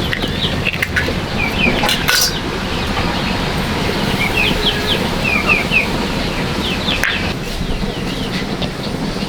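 Birds chirping in short quick runs of high calls, over a steady low rumbling noise.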